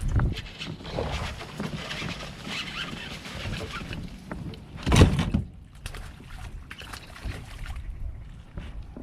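Water splashing and sloshing around a kayak, with one loud splash and knock against the hull about five seconds in.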